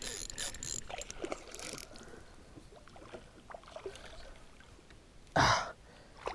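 Water splashing and sloshing around a kayak while a large freshwater drum is fought on the line, with scattered rustles and clicks. A short, loud splash comes about five and a half seconds in.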